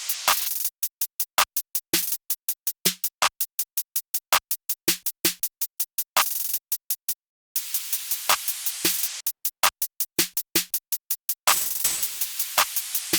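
Electronic drum-machine beat played back, with rapid evenly spaced hi-hat clicks over kick drums. It cuts out for about a second halfway through, then comes back.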